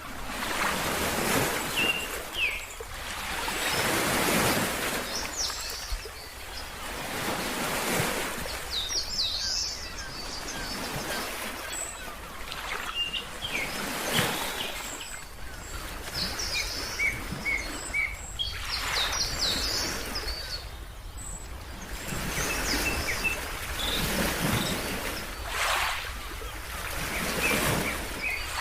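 Ocean waves washing in and out in repeated swells every few seconds, with small birds chirping in short high calls throughout.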